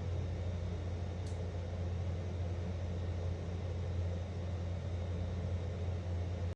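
A steady low hum with a hiss over it, unchanging throughout, and one faint short tick about a second in.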